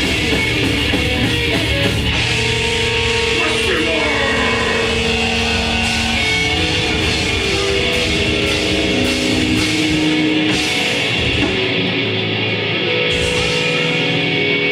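Live grindcore band through a club PA: loud distorted electric guitars with sustained ringing notes and a few sliding pitches over bass and drums. The deep low end drops out for stretches in the last few seconds.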